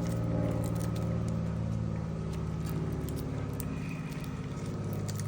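A steady low mechanical hum, like a motor or engine running, with a few faint clicks and crackles over it.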